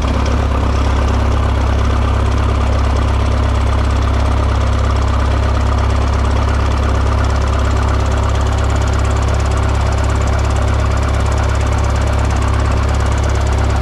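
Excavator diesel engine running steadily just after starting, now that the fuel shut-off lever on the injection pump is in the run position: the seized engine stop motor had been holding that lever partly closed, which is why it wouldn't start.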